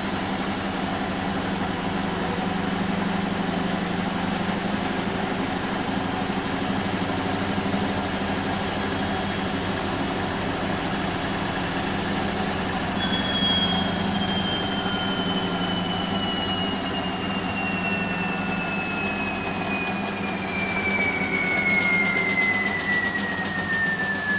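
Bosch WAN28220FF washing machine running a synthetics cycle with a steady hum. About halfway through, a high motor whine sets in and falls steadily in pitch as the drum slows.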